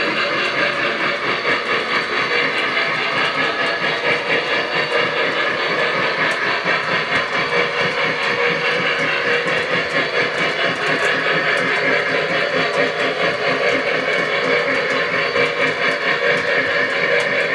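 Fine-scale model train locomotive running steadily at slow speed, a continuous mechanical train sound with a fast, even pulsing.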